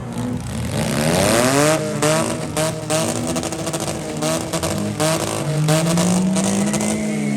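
Engines of several demolition derby vans, trucks and SUVs revving up and down at once, cut by several sharp crashes of vehicles colliding.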